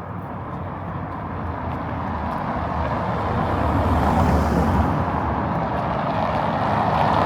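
A motor vehicle drawing nearer, its rumbling noise growing steadily louder.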